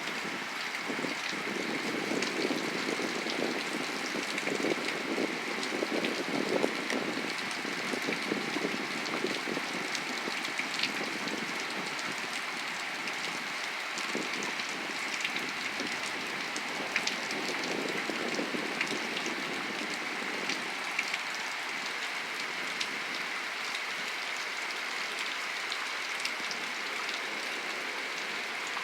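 Steady rain falling during a thunderstorm, a constant hiss with many small drop ticks. A low, uneven rumble of distant thunder runs underneath and dies away about twenty seconds in.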